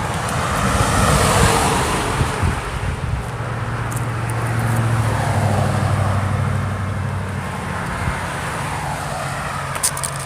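Road traffic: cars passing close by, one swelling past about a second in and another around five to six seconds in, over a steady low engine hum.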